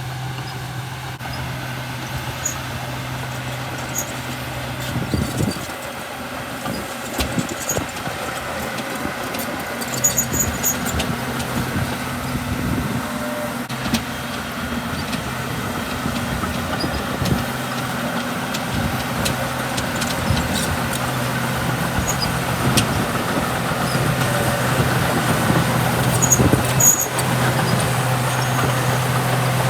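Diesel engine of a small crawler bulldozer (Komatsu D31P) running steadily under work, with scattered metallic knocks and clanks from the tracks and blade. It grows louder toward the end.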